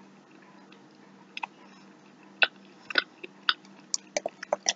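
A person chewing a mouthful of fried beef liver with barbecue sauce, wet clicks and smacks of the mouth. The liver is tough, which the eater puts down to overcooking. The chewing comes sparsely at first, then quicker and busier near the end.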